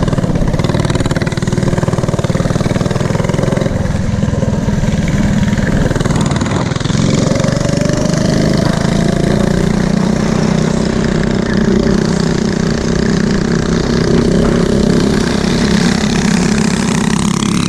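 Small mini bike engine running steadily, its pitch rising and shifting around the middle.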